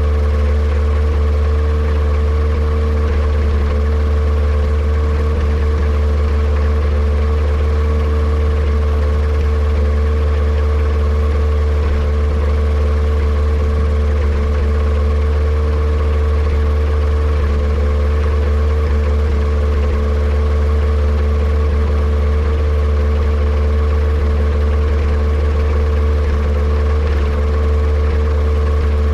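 Yamaha Apex engine of a Kitfox airplane running steadily at an even speed, with a deep hum and a steady higher drone. The engine has a misfire, which the owner suspects may come from a vacuum leak.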